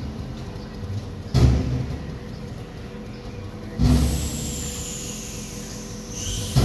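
Two heavy thuds about two and a half seconds apart, sacks of rice dropped onto a stack, over a steady engine hum from the forklift or truck. After the second thud a high hiss with a faint falling whistle sets in.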